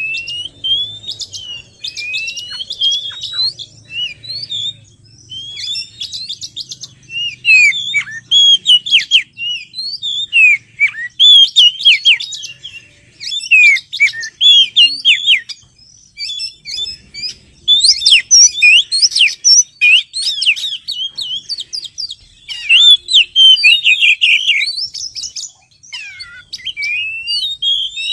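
Oriental magpie-robin song, as used in a lure recording: quick, varied runs of whistled notes, slurred glides and sharp chirps, in phrases of a few seconds broken by short pauses.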